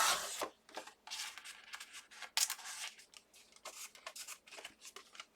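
Card stock being cut and handled: a series of short, crisp cutting and rustling strokes at an uneven pace, the loudest right at the start.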